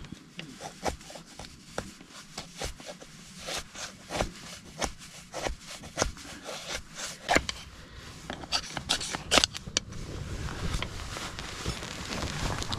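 Irregular clicks, light knocks and scraping, as of small hard objects being handled and set down, with a rushing noise building over the last few seconds.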